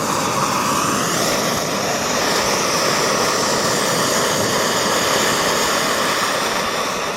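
Camp stove burner running with a steady hiss under a pot of water that has just come to the boil.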